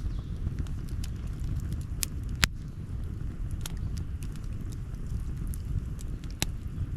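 Outdoor wood campfire crackling: irregular sharp pops and snaps, the loudest about two and a half seconds in, over a steady low rumble.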